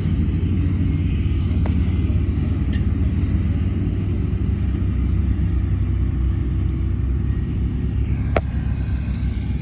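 Heavy diesel engine of earthmoving machinery running steadily with a deep rumble, with two short sharp knocks, one about two seconds in and one near the end.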